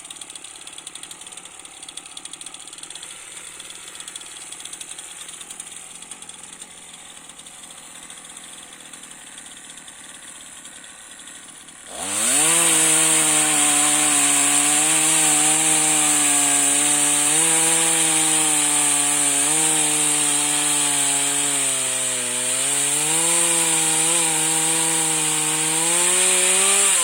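A lightweight chainsaw idles quietly for about twelve seconds, then is throttled up sharply into a loud, sustained run as it cuts branches. Its pitch dips under load about ten seconds later and rises again near the end.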